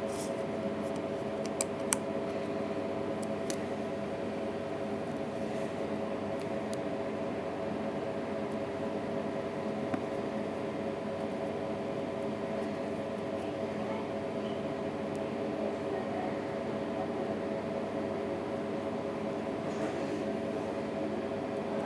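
A steady mechanical hum, with a few light, sharp clicks in the first three seconds and another about ten seconds in, from small parts or tools being handled.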